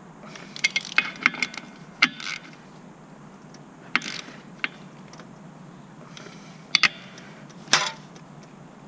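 Metal tools and parts clinking and knocking as they are handled. A quick run of clicks comes in the first two seconds or so, then single clinks about four seconds in, two near seven seconds and a louder knock near eight seconds.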